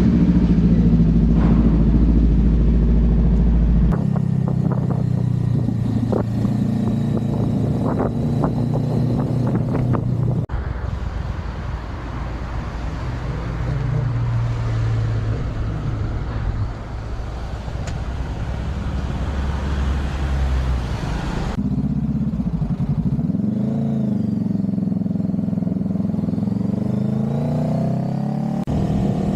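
A road vehicle's engine running while under way, in several spliced segments. Near the end the engine speed rises and falls twice.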